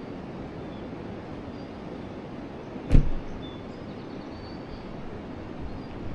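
Steady rushing of a flowing forest river, with a single sudden loud thump about three seconds in and a few faint bird chirps.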